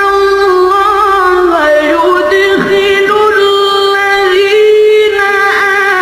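A solo voice chanting Arabic recitation in a slow, ornamented melody of long held notes that bend and waver in pitch.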